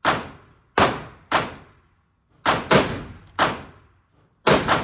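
A string of gunshots at a shooting range, about eight in under five seconds at an uneven pace, some in quick pairs, each sharp crack trailing off in a short echo.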